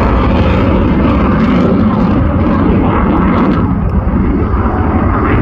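Eurofighter Typhoon's twin EJ200 jet engines running loud and steady.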